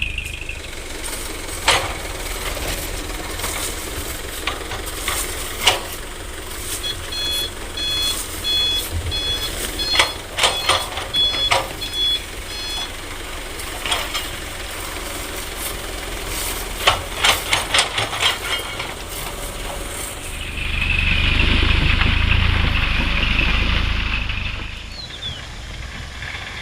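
Heavy diesel machinery running steadily, with a vehicle reversing alarm beeping over and over for about six seconds. Scattered sharp knocks and clanks come throughout. Near the end there is a louder rushing noise over the engine rumble for several seconds.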